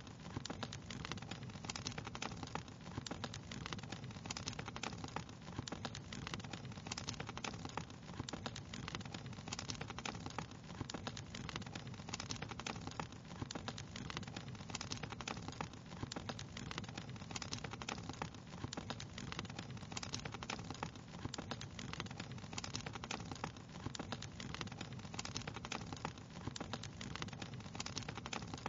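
Wood fire crackling steadily, with dense irregular small pops and snaps over a low, even rumble.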